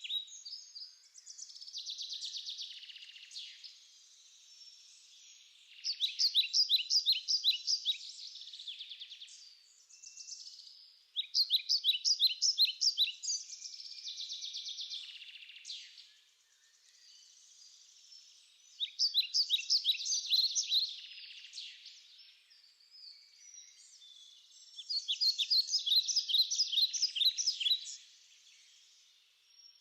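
A songbird singing: about four phrases of quick repeated notes, each two to three seconds long and roughly six seconds apart, with softer chirps in between.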